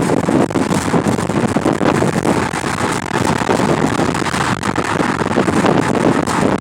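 Wind buffeting the microphone: a loud, rough, gusty rumble that flutters constantly in level.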